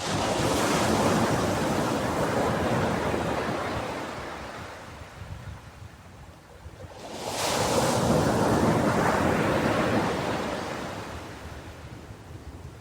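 Ocean waves breaking on a beach: two waves, each hitting with a hiss and then washing back slowly, the second arriving about seven seconds in.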